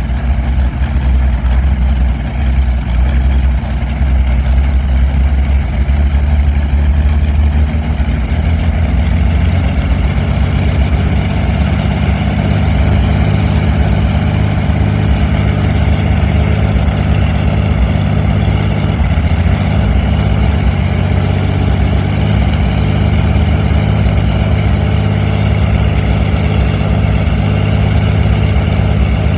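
Allison V-1710 V-12 aircraft piston engine running loud and steady; about eight to ten seconds in it speeds up to a higher, steady pitch and holds there.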